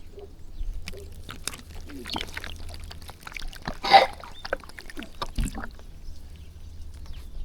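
A flock of birds feeding on scattered rice: irregular pecking clicks and short calls, with one louder call about four seconds in.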